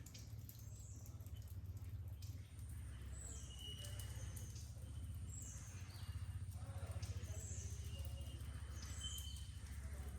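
A bird calling repeatedly, short high chirps about once a second, over a steady low rumble.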